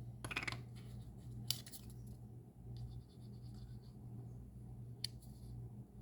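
A few brief scratchy rustles of paper craft work being handled, over a steady low hum.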